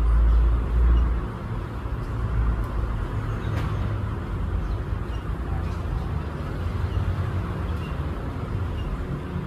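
A steady low rumble, loudest in the first second, with faint short bird chirps now and then over it.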